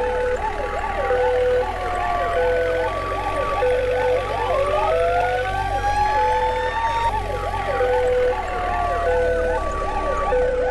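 Several electronic emergency sirens sounding at once: a fast up-and-down yelp, a two-tone hi-lo alternating about once a second, and a slow wail that climbs for a few seconds and then falls.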